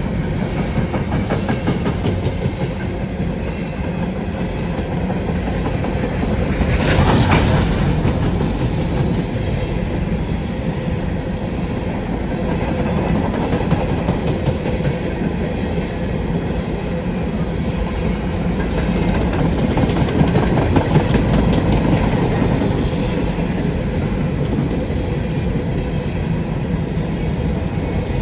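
A train rolling past, its wheels clattering over the rails with a steady rumble, and a brief louder clatter about seven seconds in.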